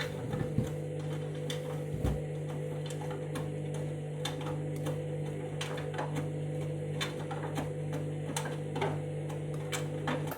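Candy washing machine running early in a wash cycle: a steady motor hum with scattered light clicks and knocks as the drum turns the load.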